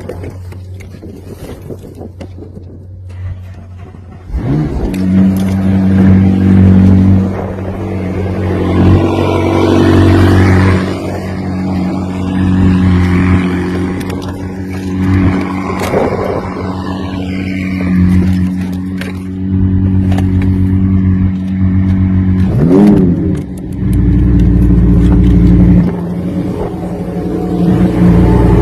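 Supercar engine cold start: after a quieter steady low hum, it fires up about four seconds in with a sharp rising flare, then runs loud at a fast cold-start idle that swells and dips. A quick rev blip comes a little before the end.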